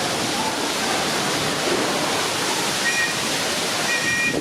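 Steady rushing noise of running water, even and unbroken, with faint voices in it. Two brief faint high tones sound near the end.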